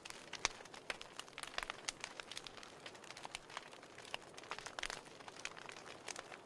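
Wood fire burning in a fireplace: irregular sharp crackles and pops over a soft steady hiss, the loudest pop about half a second in and a quick flurry of pops near the five-second mark.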